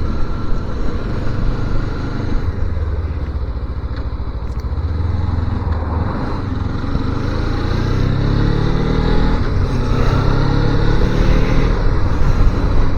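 250cc motorcycle engine running on the move; from about seven seconds in it rises in pitch and gets louder as the bike accelerates.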